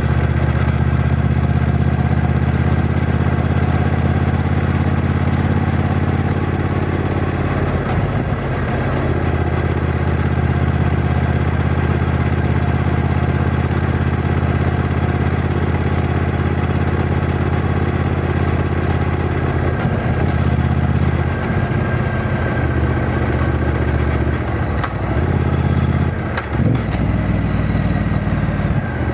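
Triumph Bonneville T120's 1200 cc parallel-twin engine running under way, a steady deep engine note. The note breaks briefly about a third of the way in and several times near the end.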